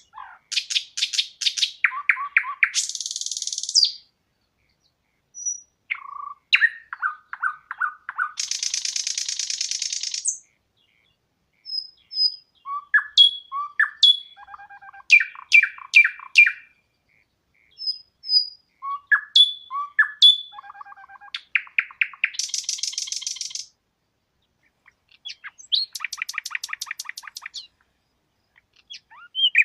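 A songbird singing in repeated phrases a few seconds long, with short silent gaps between them. Each phrase is a run of quick clear notes, and most end in a high, buzzy trill.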